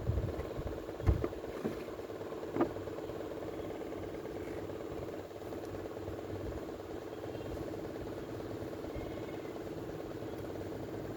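A steady mechanical hum from a small motor, with a few sharp knocks in the first three seconds.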